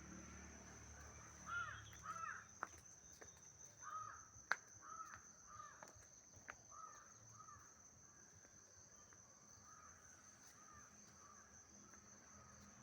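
A bird calling in a run of short, harsh calls over the first several seconds, fading out after about eight seconds, over a steady high insect drone.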